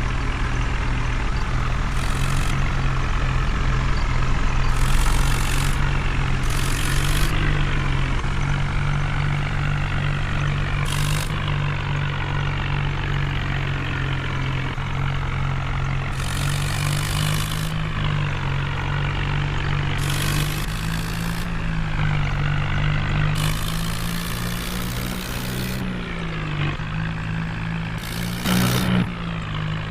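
Heavy diesel engine running steadily, its pitch rising and falling slightly now and then, with short spells of hiss every few seconds.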